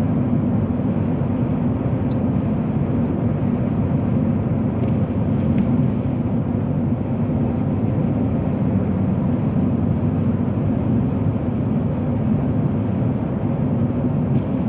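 Steady low rumble of road and engine noise inside a moving car's cabin, tyres running on the road at an even speed.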